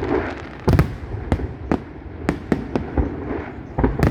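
Aerial fireworks bursting: a string of sharp bangs at uneven intervals, the loudest about a second in and another cluster near the end, over a steady background of crackle.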